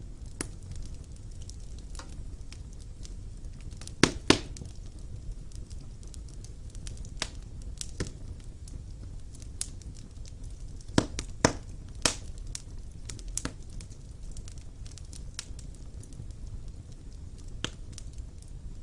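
Fire burning in a fireplace, crackling over a low, steady rumble, with scattered sharp pops; the loudest pops come about four seconds in and again in a cluster around eleven to twelve seconds in.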